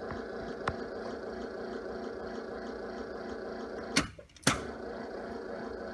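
A steady hum inside a school bus cab. About four seconds in, two sharp clicks half a second apart cut it off and bring it back, typical of the ignition key being switched off and on to cycle the glow plugs before a cold start of the T444E diesel.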